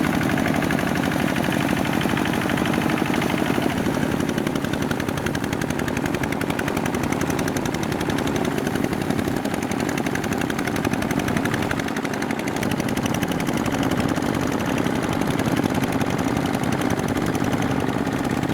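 Small diesel tractor engine running steadily under ploughing load, with a rapid, even exhaust beat.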